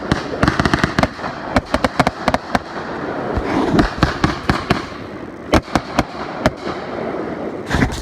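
Fireworks going off: a rapid string of sharp cracks and pops over a crackling hiss, thinning out about three seconds in, with a few separate loud bangs in the second half.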